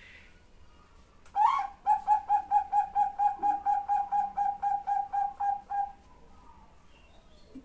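Female zebra dove calling for a male: one loud opening note, then a fast, even run of about twenty short coos, four to five a second, stopping after about four seconds.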